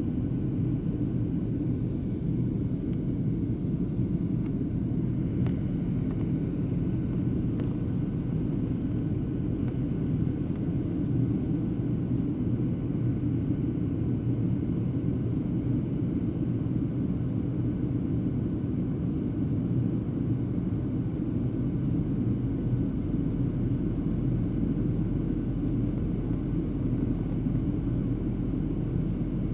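Steady airliner cabin noise in flight, a low rumbling drone of engines and airflow, with a couple of faint clicks about five and eight seconds in.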